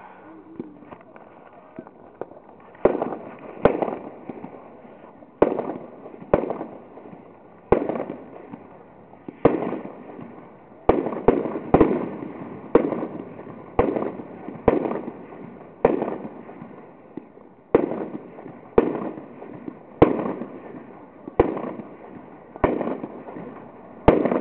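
Fireworks going off: a run of sharp bangs, roughly one a second, each trailing off briefly, starting about three seconds in.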